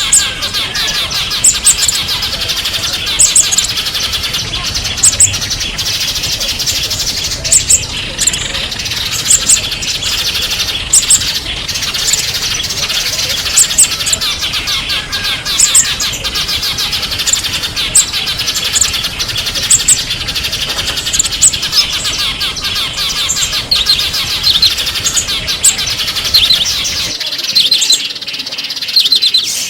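A dense chorus of small songbirds chirping and twittering, with sharp, high, paired notes repeating about every one and a half to two seconds. Near the end the low background noise drops away as the recording changes.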